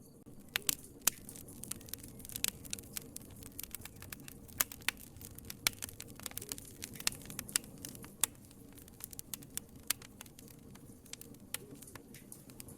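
Wood fire crackling in a fireplace: irregular sharp pops and snaps over a low steady rustle of flames, busiest for the first two-thirds and thinning out near the end.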